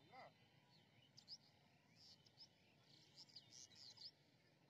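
Near silence with faint bird chirps: a quick scatter of short, high calls, thickest in the middle.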